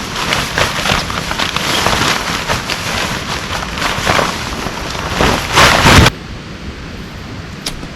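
Heavy rain pelting down with many close, crackling drop impacts, growing heaviest around five to six seconds in. It then cuts off abruptly to quieter, steadier rain.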